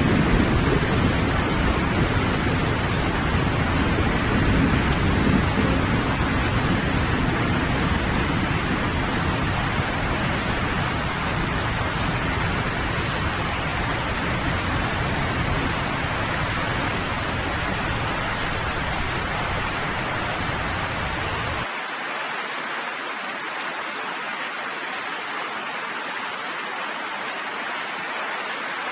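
Steady heavy rain with a low rolling thunder rumble underneath that slowly fades and then cuts off abruptly about three quarters of the way through, leaving only the rain.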